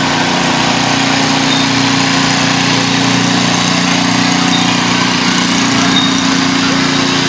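Tractor engine running steadily at constant speed, an even hum with no revving.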